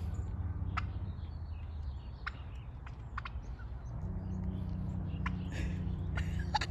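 Wild turkeys giving a few scattered short clucks, over a steady low hum that grows slightly stronger about four seconds in.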